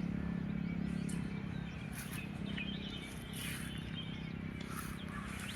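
A low, steady engine hum that fades after about a second, with scattered bird chirps over it.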